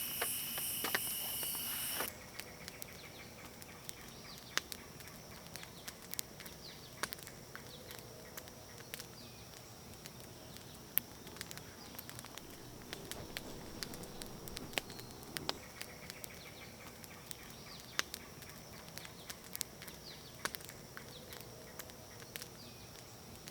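Crickets chirping steadily, loud for about two seconds and then faint, with sparse, irregular sharp clicks scattered throughout.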